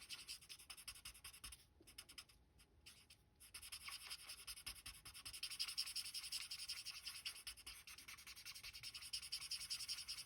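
Faint, fast scratchy rubbing of a Stampin' Blends alcohol marker tip on cardstock during colouring and shading. It stops for about two seconds near the start, then goes on steadily.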